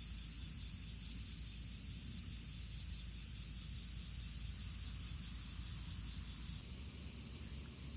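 Insects trilling steadily in a high, even band, cutting off suddenly about six and a half seconds in and leaving a faint hiss.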